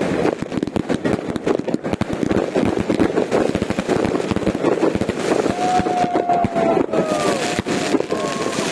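Many fireworks and firecrackers going off at once: a dense, unbroken run of overlapping cracks and bangs.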